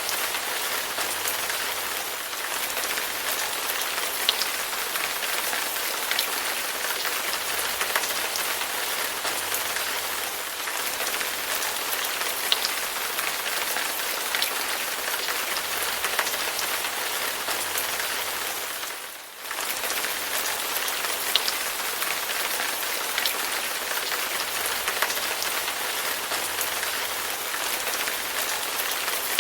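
Steady rain falling, a dense even hiss with scattered sharper drop ticks. It dips briefly for a moment about two-thirds of the way through.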